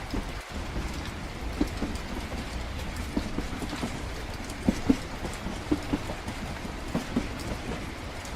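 Rain pattering steadily with scattered, irregular drips and taps, over the low, steady rumble of a moving train carriage.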